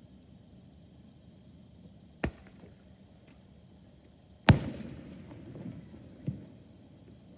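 Three firework shell bursts: a sharp bang about two seconds in, a louder one about halfway with a crackling tail, and a smaller bang near the end. Insects chirr steadily at a high pitch throughout.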